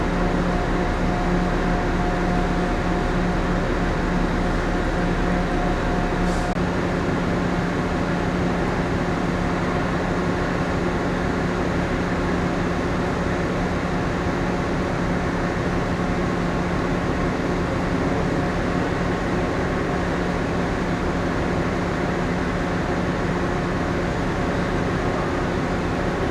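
Steady drone of the second Ogasawara Maru's onboard machinery and ventilation as heard inside the moored ship, a hum with a few steady tones. A higher tone and the deepest part of the hum drop out about six seconds in.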